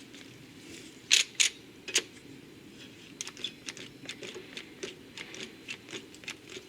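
Clamps being put on and tightened over the workpiece: three sharp clacks, then a run of lighter, irregular clicks.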